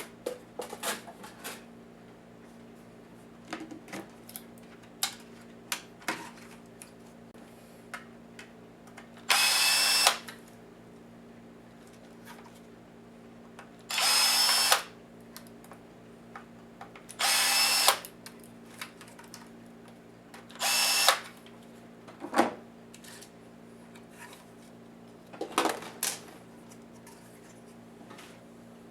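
Small power screwdriver running in four short spurts of about a second each, backing out laptop screws. Light clicks and taps of small parts and tools come in between.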